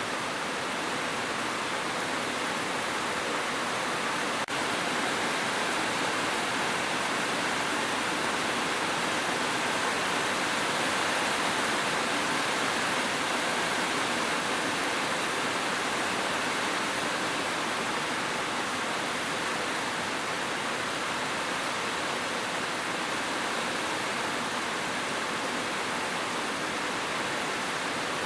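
Continuous rushing water, a steady even hiss with no single drops or splashes standing out, with a brief dip about four and a half seconds in.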